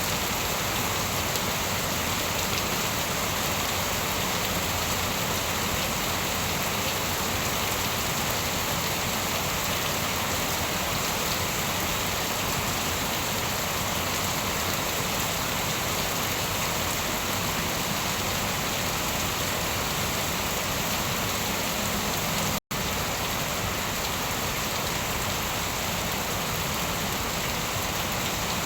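Steady rain falling, an even wash of rain with no thunder. The sound cuts out completely for an instant about three-quarters of the way through, then resumes unchanged.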